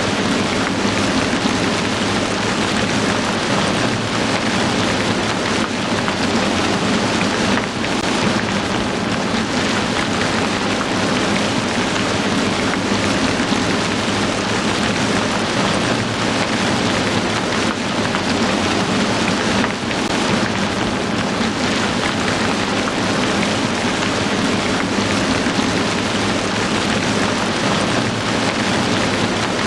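Heavy rain falling steadily: a dense, even hiss of many drops with no pauses.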